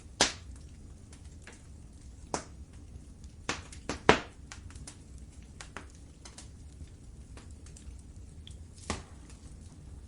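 Wood fire in a fireplace crackling: scattered sharp pops and snaps over a low steady rumble, the loudest just after the start and about four seconds in.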